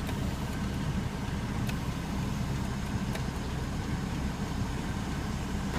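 Steady low hum inside a parked car's cabin, with a couple of faint ticks.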